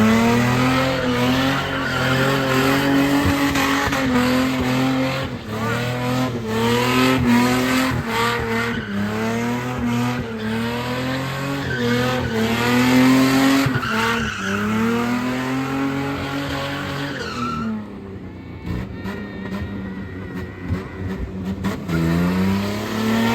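Car engine revving hard, its pitch climbing and dropping again and again, with tyres squealing as the car spins its wheels. The revs ease off about three-quarters of the way through, then climb again near the end.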